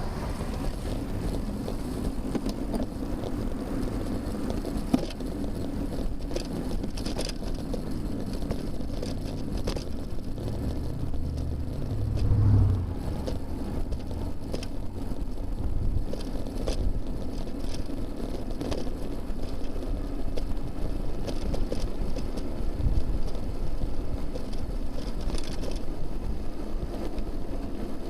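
Steady road and wind noise from a camera on a moving bicycle, with motor traffic on a multi-lane road behind. A low engine rumble swells and fades about halfway through as a vehicle passes close by.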